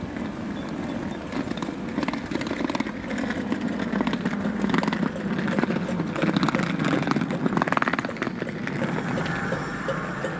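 LNER InterCity 225 electric express train running along the platform: the rumble of its wheels on the rails with a run of clicks and clatter, loudest in the middle.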